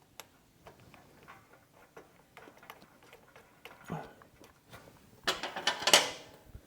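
Small metal clicks and taps of hand tools and parts while a riding mower's carburetor float bowl is being refitted, with a louder noisy burst lasting about a second, starting about five seconds in.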